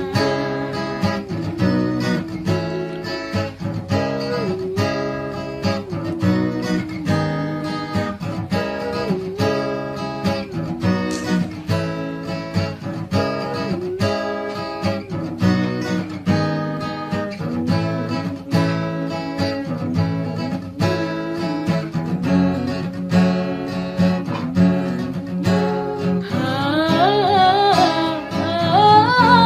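Instrumental break of a song: acoustic guitar strumming a steady rhythm over a bass line, with a wavering melody line coming in near the end.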